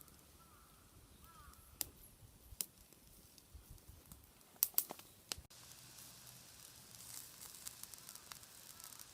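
Wood bonfire crackling, with a few sharp pops in the first half; after a sudden break about halfway through, the crackling turns denser and steadier.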